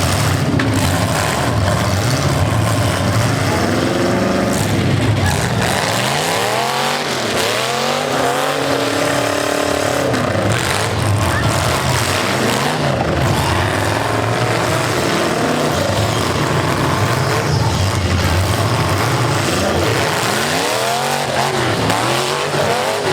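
V8 demolition derby cars' engines revving hard, their pitch rising and falling again and again over a steady din of engine noise.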